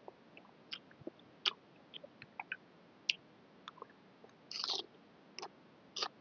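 A person eating boat noodles close to the microphone: scattered wet mouth clicks and chewing smacks, with one longer, noisier mouth sound about four and a half seconds in.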